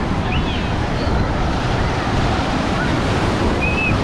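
Ocean surf washing onto the beach, a steady rushing with wind buffeting the microphone. Two short high chirps stand out, one near the start and one near the end.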